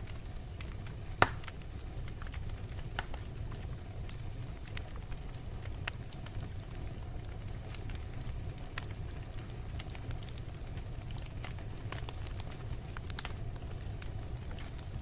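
Wood fire burning in a fireplace: a steady low rumble of the flames with scattered sharp crackles and pops from the logs, one loud pop about a second in.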